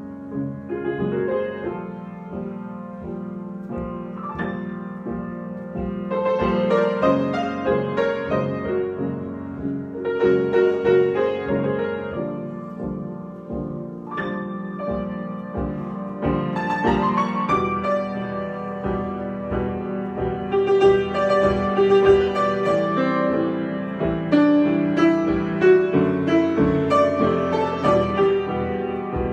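Solo piano improvisation: held low notes and chords under flurries of quicker higher notes, rising and falling in loudness in waves.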